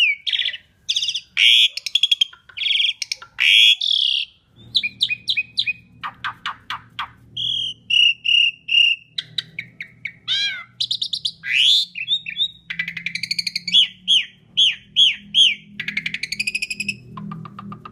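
Asian pied starling singing loudly in a varied, full run: fast series of repeated chirps, rattles and rising and falling whistled notes broken by short pauses.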